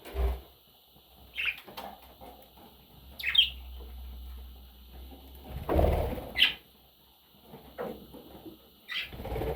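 Pet budgerigar giving a few short, separate chirps spaced a couple of seconds apart, among dull thumps at the start and about six seconds in.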